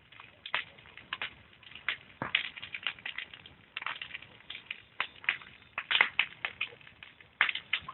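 Wood campfire crackling, with irregular sharp pops several times a second.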